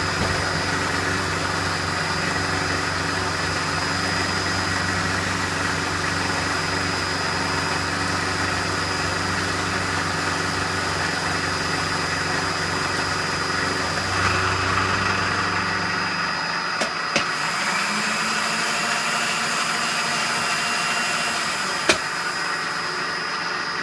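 Milling machine running steadily. Its low hum stops about two-thirds of the way in, followed by a few sharp clicks.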